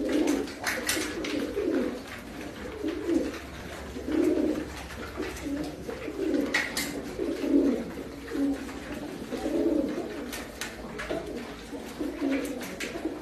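Domestic pigeons cooing over and over, low rounded coos that overlap one another, with a few sharp clicks in between.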